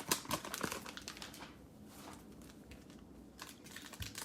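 Trading cards and a plastic cello-pack wrapper being handled: soft clicks and crinkly rustles as cards are flipped through, easing off about a second and a half in and picking up again near the end.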